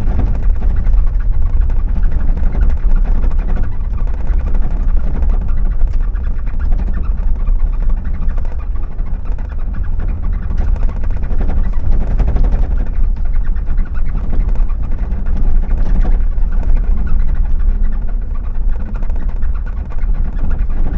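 Steady rumble of a car driving: engine and tyre noise.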